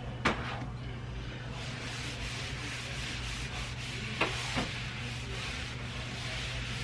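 Rubbing and rustling handling noise over a steady low hum, with a sharp click just after the start and two more clicks about four seconds in.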